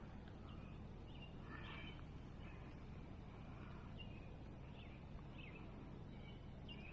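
Faint bird calls: short chirps scattered through, over a steady low rumble.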